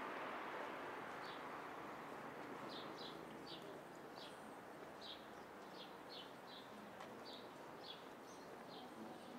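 A bird calling with a run of short, high chirps, about two a second, over a soft steady background noise that eases after the first couple of seconds.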